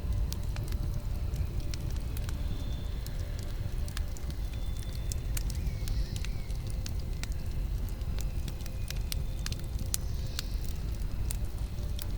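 Campfire burning: a steady low rumble of flames with scattered, irregular sharp crackles and pops from the burning wood.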